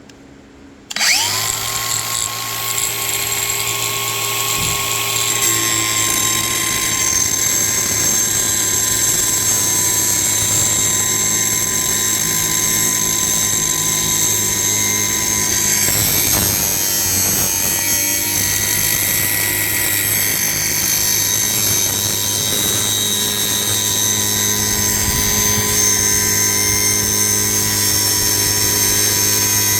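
Electric grinder spinning up about a second in, then running steadily at one pitch with a grinding hiss as it grinds out the bore of a stainless steel tubing fitting to widen it.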